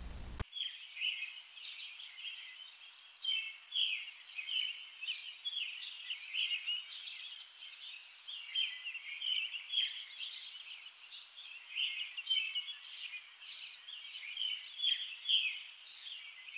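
Small birds chirping in a dense chorus of short, overlapping calls over a faint outdoor hiss, starting abruptly about half a second in.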